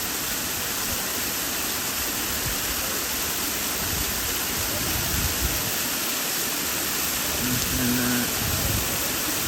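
Waterfall: a steady, even rush of falling water, with a brief faint voice about eight seconds in.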